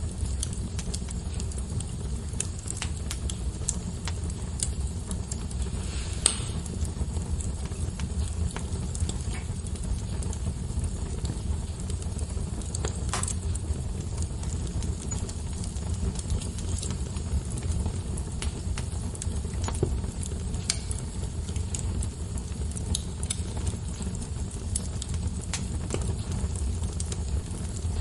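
Wood fire burning with a steady low rumble and light, scattered crackles and pops from the burning logs, with two louder snaps about six and thirteen seconds in.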